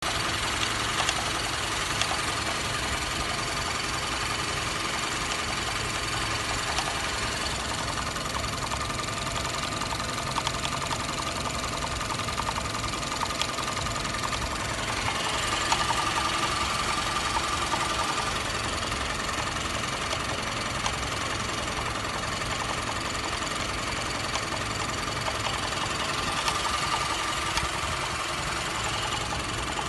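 Opel Insignia 20NHT (LTG) 2.0 turbo four-cylinder petrol engine idling, with a fast light ticking and an extra mid-pitched hum that swells twice. The hum is the brake system's vacuum pump at work, which is normal.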